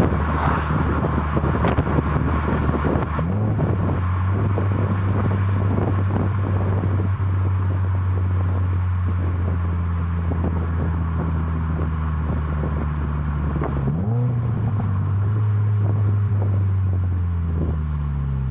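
2018 Subaru WRX's turbocharged flat-four running through an ISR MBSE cat-back exhaust with an added resonator, a steady low drone at constant revs. About fourteen seconds in the pitch dips and climbs again quickly, and it falls away near the end.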